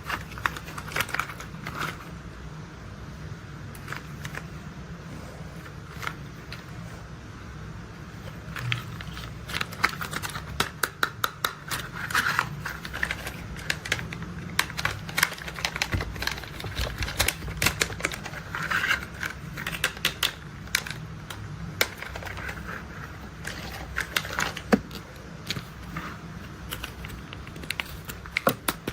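Hard plastic toy construction vehicles being handled and tapped: irregular clicks and taps, sometimes in quick clusters, over a low steady hum.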